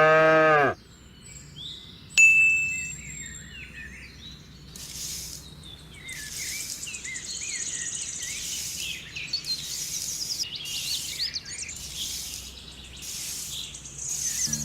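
A short, loud animal call right at the start, then birds chirping with many quick high notes from about four seconds in.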